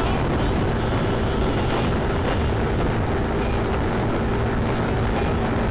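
Yamaha Tricity 155 scooter riding at a steady speed: wind and road noise over the constant drone of its single-cylinder engine.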